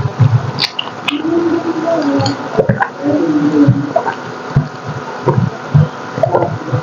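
Close-miked wet chewing and lip smacking while eating braised pork hock (paksiw na pata), with irregular squishy mouth sounds and a few sharp clicks.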